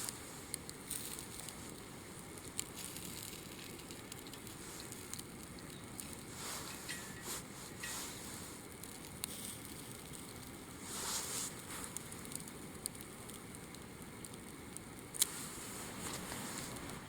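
Small wood fire in a mini fire pit crackling, with scattered sharp pops and a louder single pop about fifteen seconds in.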